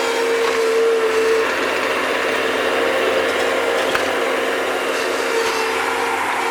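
Bobcat skid-steer loader running while it digs, its engine hum steady under a high, even whine, with a faint knock or two.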